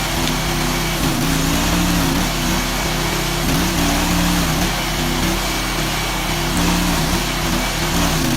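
An engine running steadily over a constant hiss, its pitch dipping and climbing back several times.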